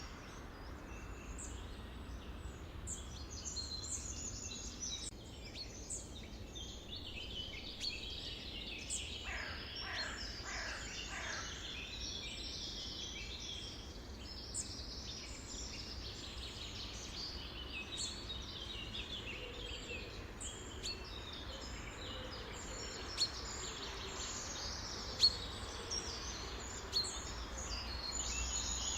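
Several birds chirping and singing together in a busy chorus of short high calls, with a run of falling whistles about ten seconds in, over a low steady background rumble. A few sharp clicks sound near the end.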